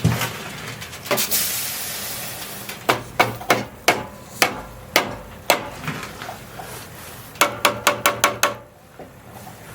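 Sharp knocks, spaced out at first, then a quick run of about eight blows in a second near the end, with a brief hiss about a second in.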